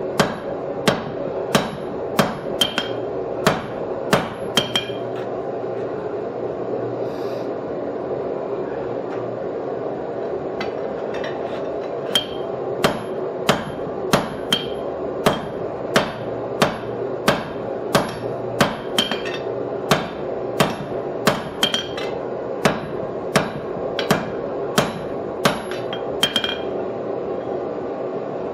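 Hand hammer striking hot steel on an anvil, about one and a half blows a second, some with a short metallic ring. The blows stop for several seconds in the middle, then resume, over a steady background drone.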